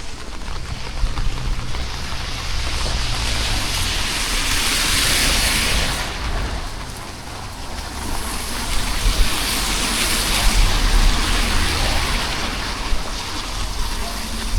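Rain with gusting wind buffeting the microphone: a steady hiss that swells twice, over a low rumble.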